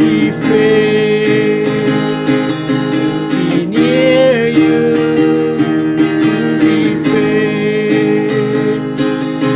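Music: acoustic guitar strumming chords in an instrumental passage, with a long held melody line above it that bends in pitch about four seconds in.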